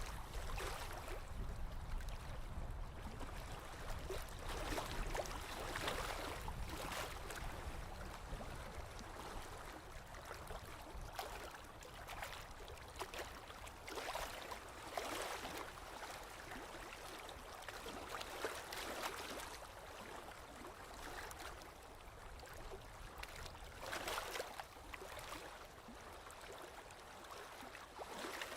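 Small waves lapping on a lake shore, irregular splashes every second or two, over a low rumble.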